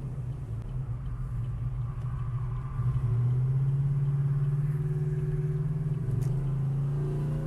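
V8 pickup engine with an aftermarket stage 4 camshaft running with a steady exhaust note, getting louder about three seconds in.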